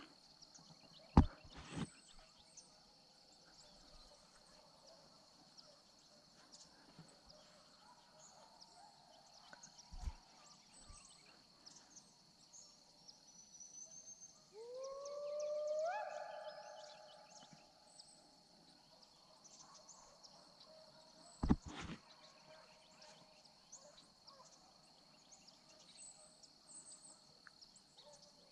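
Quiet outdoor ambience with a steady faint high tone. About halfway through, a hunting hound gives one long howling bay in the distance: it rises, steps up in pitch and holds for about three seconds. Two sharp clicks come about a second in and about three quarters of the way through, the first being the loudest sound.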